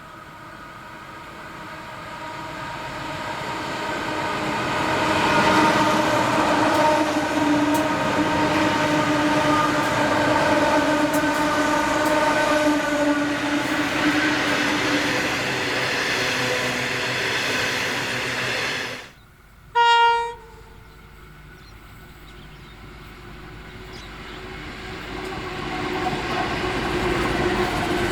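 Diesel coal-train locomotives running past, building up and then holding a loud steady engine note, which cuts off suddenly about two-thirds of the way through. A short horn toot follows, then another train's noise builds up again near the end.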